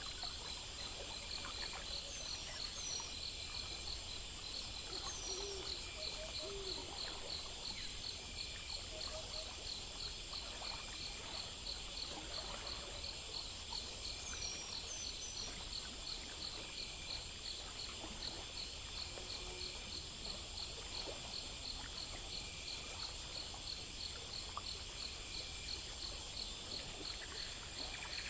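Insects such as crickets chirping in a steady, fast-pulsing chorus over a constant high hiss, with a few short falling chirps now and then.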